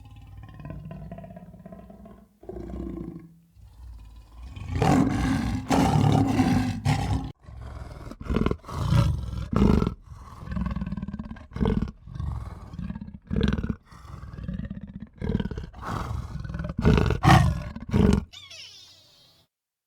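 A large animal's deep roaring calls, repeated in about a dozen bursts of varying length, stopping shortly before the end.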